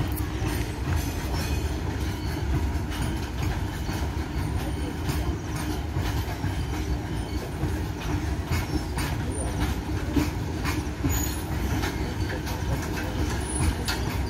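Freight train of covered box wagons rolling past at steady speed: a continuous low rumble of steel wheels on rail, with frequent clicks and knocks as the wheels pass over rail joints.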